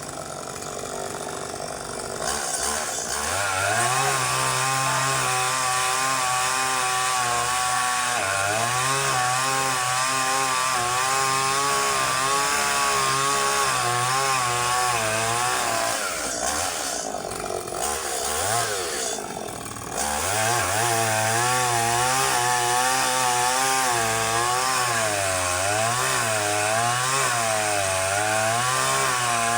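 Chainsaw running at high speed while cutting date palm fronds, its pitch wavering as the load comes and goes. About two-thirds of the way through it eases off for a few seconds, then picks up again.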